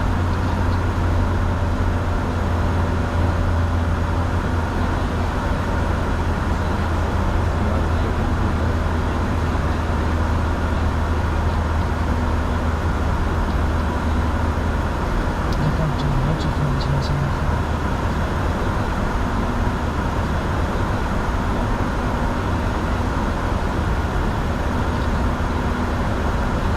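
Steady cockpit noise of a Bombardier Challenger 605 climbing out after take-off: airflow and turbofan engine hum, with a strong low drone that weakens about halfway through.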